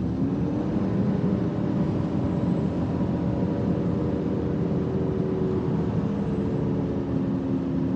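Ford F-550's diesel engine rising to a raised idle over the first second and then holding it steady, as it does during a static DPF regeneration.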